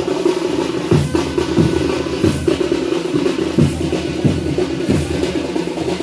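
Dhol and tasha drums playing together: a fast, steady roll over deep dhol beats about one and a half times a second, each beat dropping in pitch.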